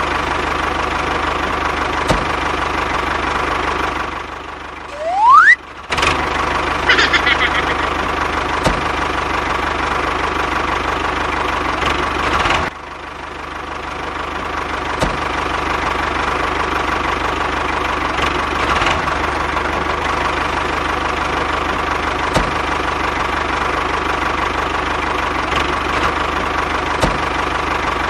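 A small engine running steadily, with a brief rising whistle-like glide about five seconds in.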